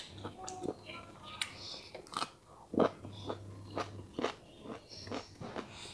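Close-miked crunching and chewing of a crisp cucumber slice: irregular crunchy bites, the loudest about three seconds in.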